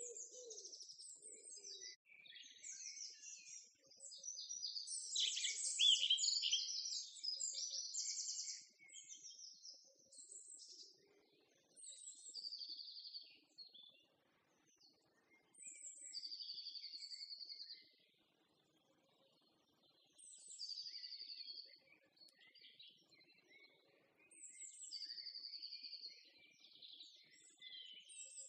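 Small birds chirping and singing: busy overlapping chirps about four to eight seconds in, then a short high trilled phrase repeated every four seconds or so.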